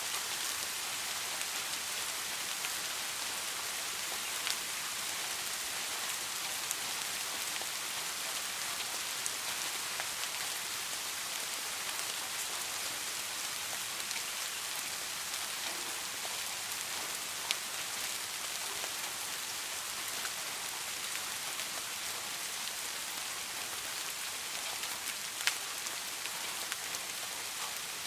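Steady rain falling, an even hiss with scattered individual drops ticking on a surface; a few louder drops stand out, one about 17 seconds in and one near the end.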